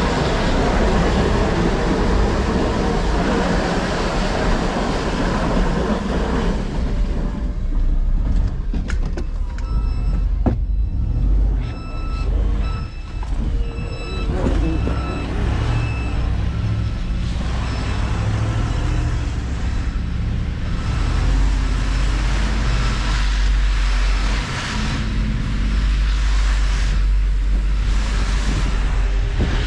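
Heavy truck engine running with a broad rushing noise for the first several seconds. From about nine seconds in, a vehicle's reverse backup alarm beeps steadily about once a second, over the engine drone.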